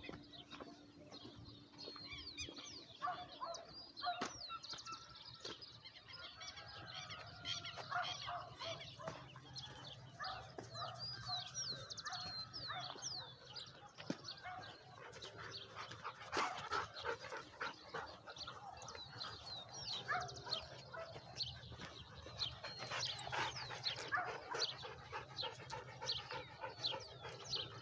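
Dogs barking and whining, with many birds chirping throughout in quick short calls.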